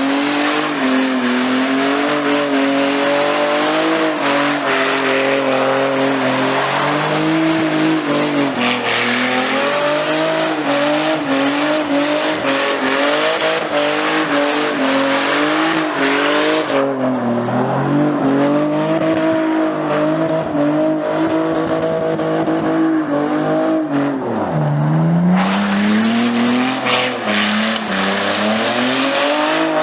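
BMW engine held at high revs during a burnout, with the tyres screeching. About two-thirds of the way through, the tyre screech drops away for several seconds while the revs sag and climb again. Then the screech returns near the end.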